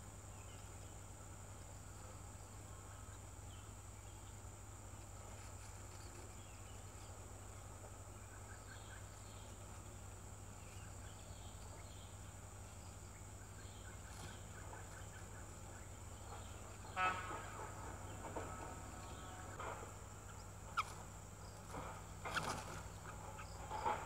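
A steady high insect buzz over a low hum. In the last third come a few short, rapid chattering bird calls and sharp clicks, the loudest a pulsed chatter about two thirds in.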